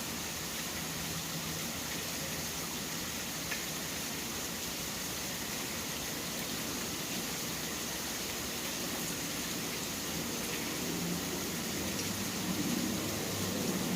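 Steady hiss of rain, with a low rumble swelling near the end and one faint tick about three and a half seconds in.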